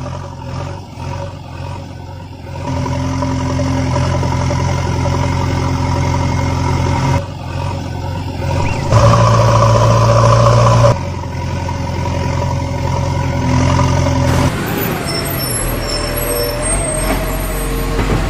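Heavy vehicle engine running steadily. It gets louder about two and a half seconds in and is loudest for a couple of seconds in the middle before settling back, with some thin wavering higher tones near the end.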